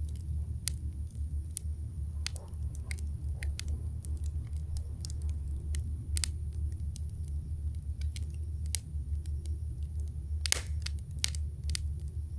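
Wood campfire crackling: irregular sharp pops and snaps over a steady low rumble, with a quick run of louder pops near the end.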